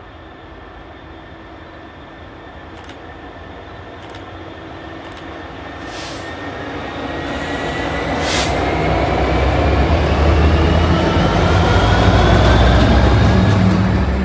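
Locomotive-hauled train approaching and getting steadily louder, with a low rumble and a whine that rises in pitch as it picks up speed. A few sharp clicks are heard in the first half.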